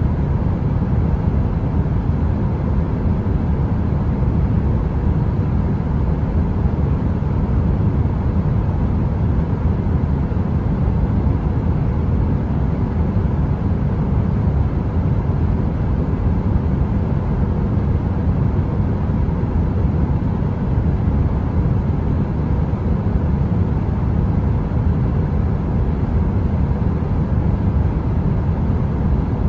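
A heater running steadily: an even, deep rushing noise with a faint steady hum, unchanging throughout.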